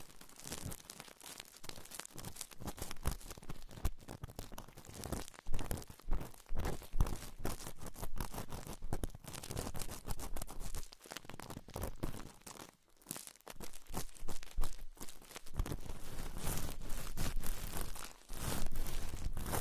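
Close-miked ASMR trigger sounds: dense, irregular crackling and scratching made up of many small clicks, growing steadier and denser over the last few seconds.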